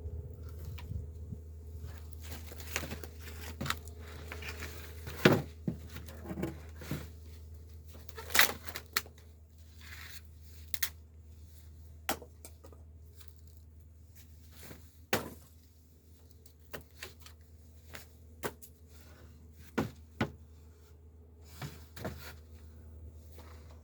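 Irregular knocks, clicks and rustling of scrap wood and other material being handled, over a steady low hum; the loudest knocks come about five, eight and fifteen seconds in.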